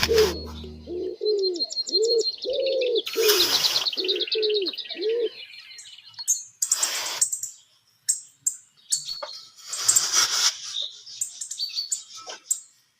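Birds calling: a repeated low, arching cooing note about twice a second together with a rapid high chirping trill, for the first five seconds or so. After that comes a series of irregular rustling or scraping bursts.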